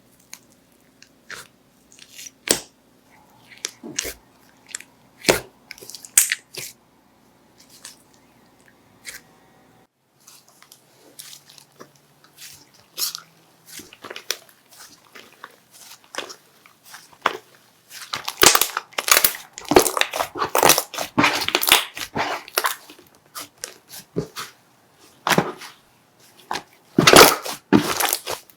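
Slime being pressed and squished by hand, making sharp scattered clicks and pops. In the second half these become a dense run of loud crunchy crackling.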